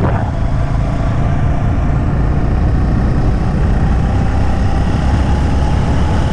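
Steady, loud rumble of a motor vehicle engine, with no change in pitch.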